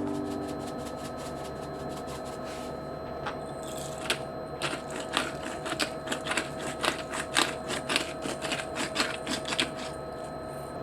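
A run of quick, irregular clicks and taps, several a second, starting a few seconds in over a faint steady hum, typical of kitchen work.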